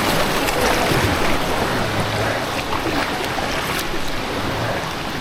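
Steady rush of moving river water, a full even hiss that eases slightly toward the end.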